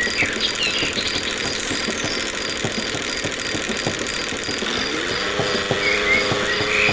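Small engine running with an uneven knocking beat. About five seconds in, a tone rises in pitch and then holds steady as it speeds up. A steady, evenly pulsing cricket chirp runs behind it.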